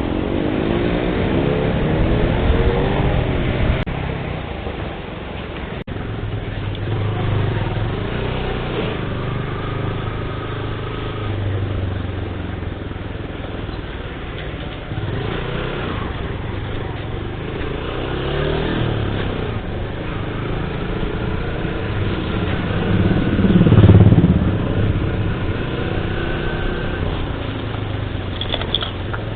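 Motorcycle engine and road traffic heard while riding, the engine note rising and falling as the bike speeds up and slows. A louder surge about 24 seconds in.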